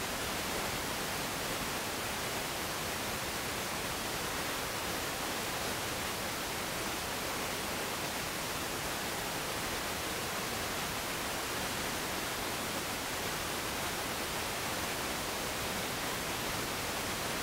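Steady, even hiss of static with no change in level, and no engines or voices audible through it.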